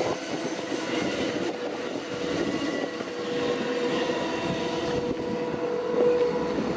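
Amtrak passenger train's last cars rolling past and moving off down the track, the wheels rumbling with a steady high whine that peaks about five to six seconds in.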